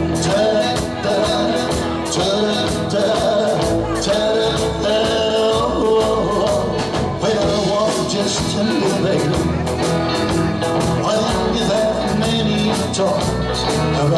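Live rock and roll band playing at full volume, with a steady, driving drum beat under guitar and bass.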